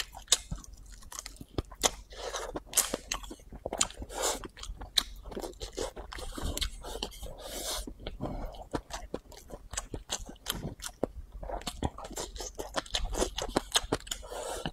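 Close-miked chewing of a mouthful of rice noodles and meat: a stream of irregular wet mouth clicks and smacks.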